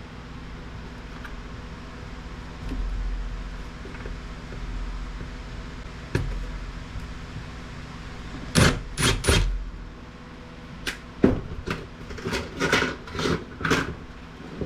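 Clicks and knocks of an electronic device's casing and circuit boards being handled and taken apart by hand: a few dull knocks, then three sharp clacks in quick succession, followed by a run of lighter clicks and taps.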